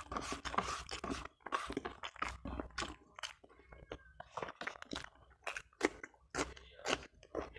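A person chewing and crunching food close to a clip-on microphone, with sharp crunches near the end as he bites into a cucumber slice.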